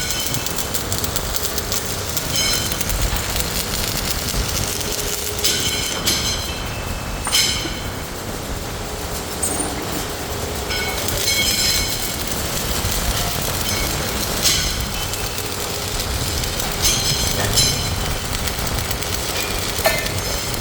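Metal workshop noise: a steady machinery rumble with heavy metal parts clanking and ringing at irregular moments, roughly every one to three seconds.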